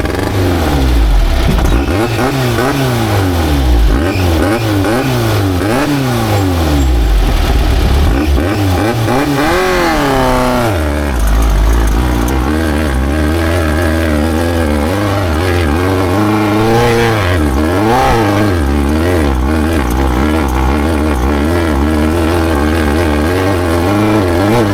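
Off-road race vehicle's engine, just started, revved in quick repeated blips for about the first ten seconds, then held at a steadier speed with small rises and falls.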